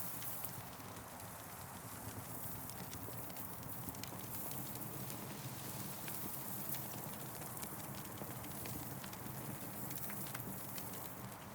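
Campfire burning and crackling, with irregular sharp pops and snaps over a steady hiss.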